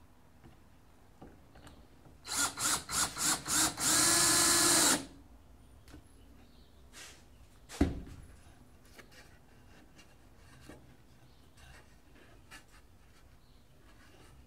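Power drill run in five short trigger blips, then held for about a second, its pitch dipping as the motor slows under load before it stops. A few seconds later comes a single sharp knock, followed by light clicks from handling.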